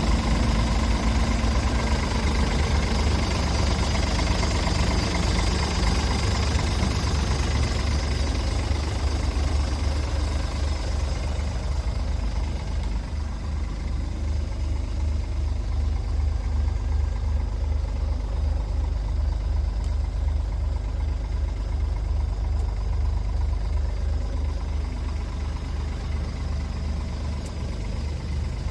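Scania R410 tractor unit's 13-litre inline-six diesel engine idling steadily with a deep, even rumble. About twelve seconds in, the higher-pitched part of the sound fades while the low rumble carries on.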